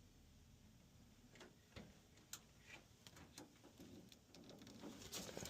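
Near silence with faint, irregular small clicks and taps, a little busier near the end.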